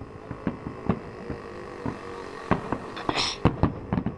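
Fireworks bursting: a run of irregular bangs at different strengths, with a short hiss just after three seconds.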